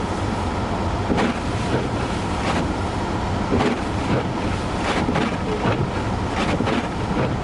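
Blizzard wind buffeting the vehicle and microphone in gusts, over the steady low rumble of the idling vehicle.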